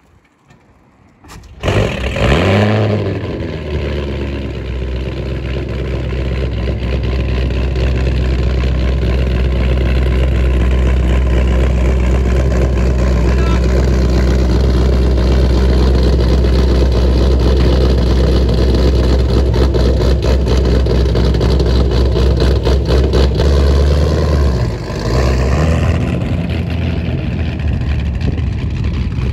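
Corvette V8 catching after a push-start about a second and a half in, revving briefly, then idling loudly and steadily. Near the end the engine note dips and changes as the car pulls away.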